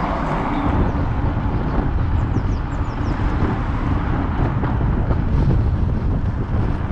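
Wind buffeting the microphone on a moving electric bike: a steady low rumble that rises and falls without a break.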